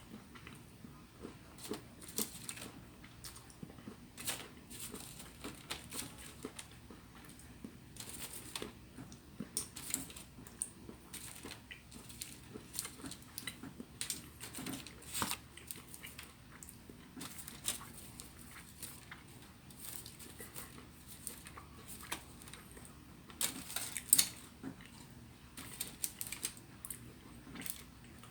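Close-up eating sounds: crunching and chewing of chocolate almond Bark Thins, with irregular sharp crunches and crackles, a few louder ones near the end.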